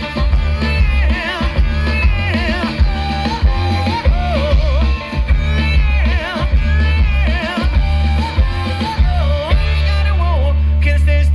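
Live band playing an instrumental passage: a lead instrument plays a bending, wavering melody over a pulsing bass and drums. About ten seconds in, the beat drops out and the band holds a low sustained chord.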